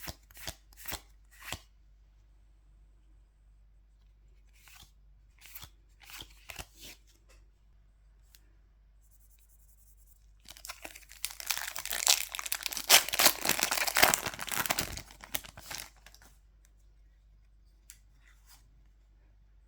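A foil trading-card booster pack torn open and crinkled: a dense stretch of tearing and rustling about five seconds long in the second half. Before it, a few short crisp flicks and light rustles.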